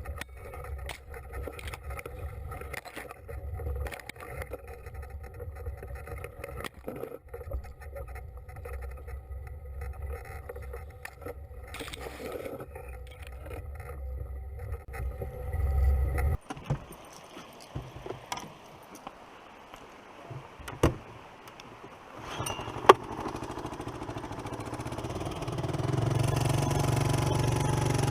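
Small engine running steadily, then cutting off abruptly about two-thirds of the way through. A few sharp clicks or knocks follow, and an engine is running again near the end.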